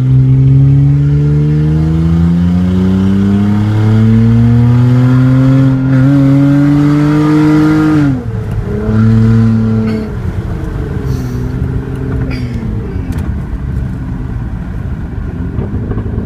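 2006 Hyundai Sonata V6 running with an open exhaust (mufflers, resonator and catalytic converter removed), accelerating at full throttle; the engine note climbs steadily for about eight seconds. The pitch then drops abruptly, rises briefly, and falls away to a lower, uneven drone.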